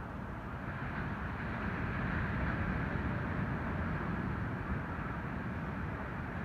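Ocean surf from an incoming typhoon swell: a steady low rumble of breaking waves, swelling for a couple of seconds about a second in.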